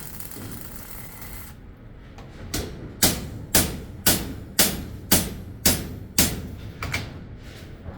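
Hammer blows: about eight hard, evenly spaced strikes, roughly two a second, starting about three seconds in, each with a brief ringing tail. The last couple near the end are lighter. A steady hiss comes before them.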